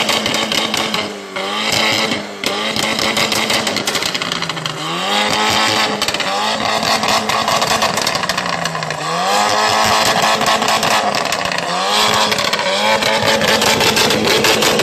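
BMW 328i engine through an aftermarket downpipe and valved (Varex) exhaust, revved repeatedly: the revs dip and climb again about four times, with crackling in the exhaust note.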